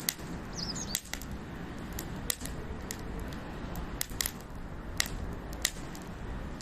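Campfire crackling: irregular sharp pops and snaps, one or two a second, over a low steady rumble.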